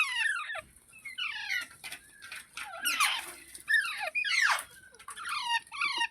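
Green ringneck parakeet giving a rapid run of short, high-pitched squeaky calls, each falling in pitch, some in quick pairs.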